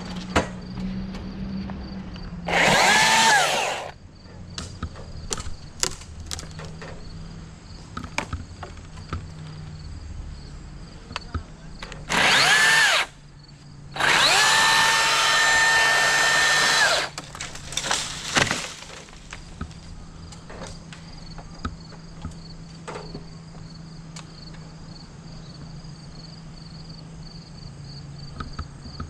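Power saw cutting dead tree limbs in three bursts: about a second near the start, briefly around twelve seconds, then about three seconds. Each time the motor's whine climbs in pitch, holds steady and cuts off sharply. Scattered snaps and clicks come between the cuts, over a steady high chirping of insects.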